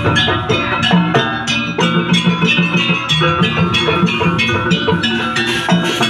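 Live Javanese jaranan campursari music: gamelan metallophones ringing over drums in a steady, driving rhythm.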